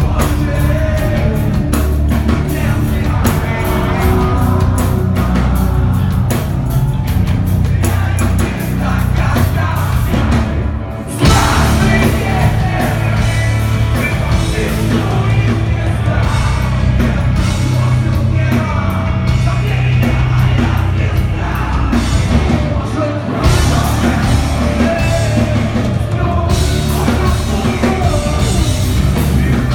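Live heavy rock band playing loud, with drums, distorted guitars and shouted vocals; the band drops out briefly about eleven seconds in, then crashes back in at full volume.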